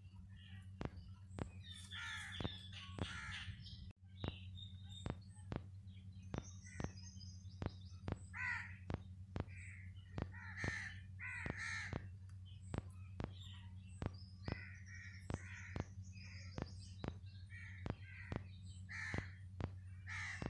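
Birds calling in a tree: short, harsh calls and chirps come and go throughout. Under them run a steady low hum and evenly spaced sharp clicks, about two a second.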